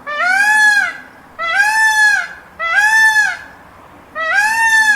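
Peacock calling: four loud honking calls in quick succession, each under a second long and rising then falling in pitch.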